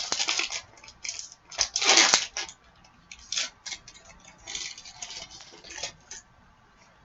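Foil trading-card pack wrapper crinkling as it is handled and torn open, in irregular crackly rustles, the loudest about two seconds in.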